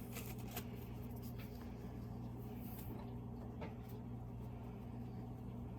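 A steady low hum runs throughout, with a few faint light taps about half a second in, again about a second and a half in, and near 3.6 seconds.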